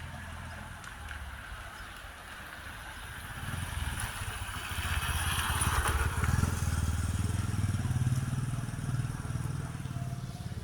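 Motor vehicle passing by: a low engine rumble swells about four seconds in and fades near the end, with a hiss of tyres or wind at its loudest.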